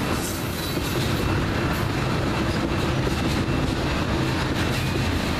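Railroad tank cars of a crude oil train rolling steadily past, their steel wheels rumbling over the rails, with a faint thin high tone running under the noise.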